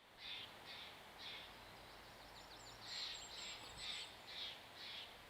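Birds calling in a forest: a series of about eight short, harsh calls spaced unevenly, with a thin, high twittering from another bird in the middle.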